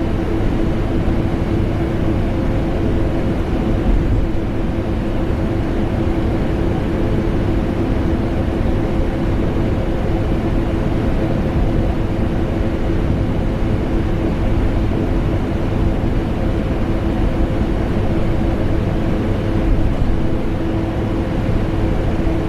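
Vacuum cleaner running steadily, blended with air-conditioner noise: a constant deep rushing hum carrying a steady motor tone.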